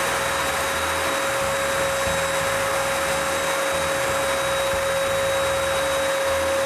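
Varnish spray gun running, a steady rush of air and spray with a constant whine from its air supply.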